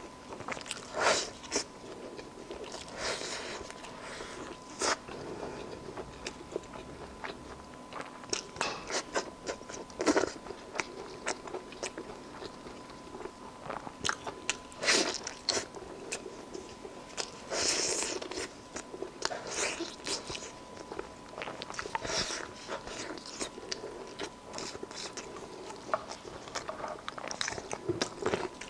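Close-miked eating: a person biting and chewing braised meat on the bone, a string of irregular crunchy bites and chewing sounds picked up by a clip-on microphone.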